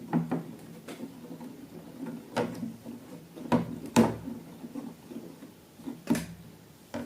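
A string of sharp clicks and knocks, about seven of them at irregular intervals, as hard objects are handled and set down.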